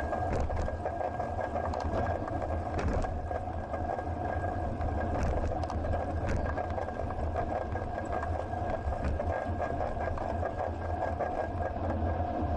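A bicycle in motion heard through an action camera riding on it: a steady hum and rattle with a low rumble and scattered short clicks.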